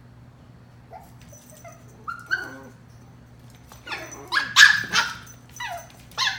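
Chihuahua puppies yipping and barking in play: a few small, high yips in the first half, then a burst of louder yaps about four seconds in and two more near the end.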